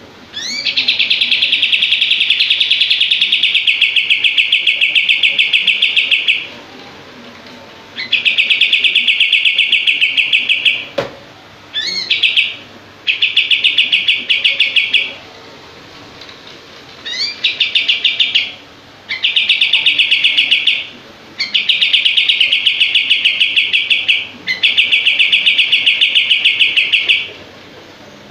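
A kapas tembak, a bulbul, singing its rapid-fire song: about eight runs of fast, tightly spaced notes, each a second to six seconds long and often opened by a quick rising sweep, with short breaks between.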